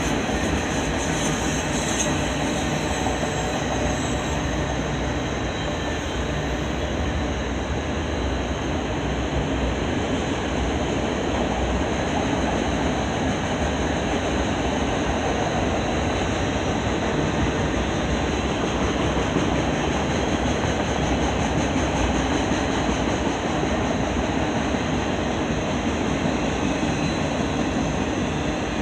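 Freight train cars rolling past at steady speed: continuous noise of steel wheels on rail, even in loudness throughout.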